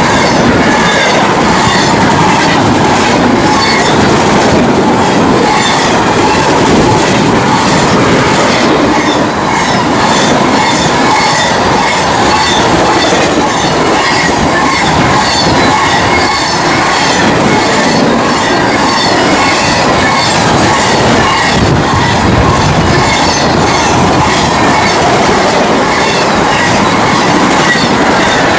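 Union Pacific Z train, a fast intermodal freight, rolling past at speed: a loud, steady rush of rail cars with wheels clicking rhythmically over the rail joints.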